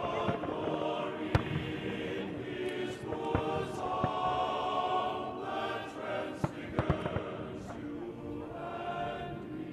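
Scattered firework bangs and crackles, a few sharp ones, over a steady blend of many voices held on long notes.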